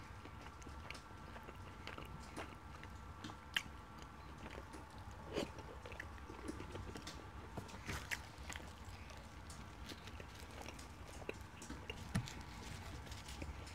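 Chewing and mouth sounds of a person eating chicken curry with flaky paratha, scattered soft clicks and smacks, with a faint steady hum underneath.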